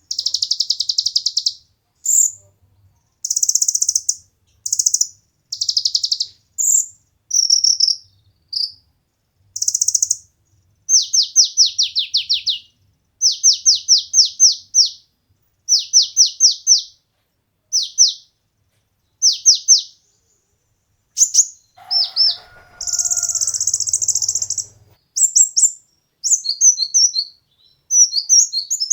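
Brown-throated sunbird (kolibri ninja) singing: high, thin phrases in short bursts, with runs of rapid down-sweeping trilled notes repeated every second or so in the middle stretch.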